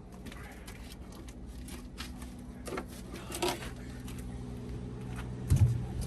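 Scattered knocks and clatter of a hammer and tools on metal parts in a tank's engine bay, over a steady low hum, with a heavier thud near the end.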